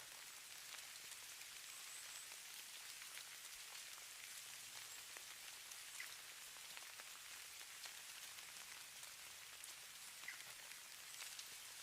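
Falling-snow ambience: a faint, steady high hiss with scattered light ticks of precipitation landing on a surface.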